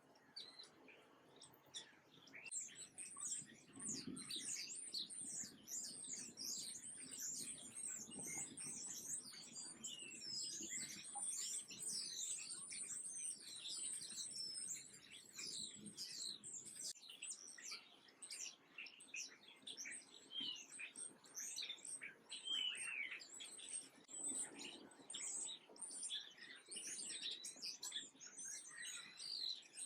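Many small songbirds chirping together in a dense, continuous chatter of short, high calls, starting about two seconds in.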